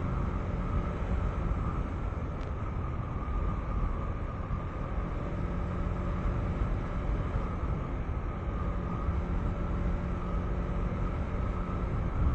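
Single-cylinder engine of a KTM 390 Enduro R dual-sport motorcycle running steadily under way, with tyre and wind noise mixed in.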